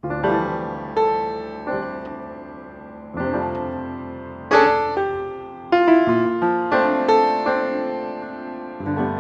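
Background piano music: slow chords and single notes struck and left to ring and fade.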